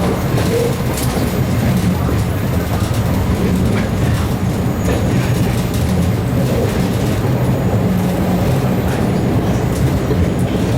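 MBTA Red Line subway car running along the track, heard from inside the car: a steady low rumble with a few faint clicks from the wheels on the rails.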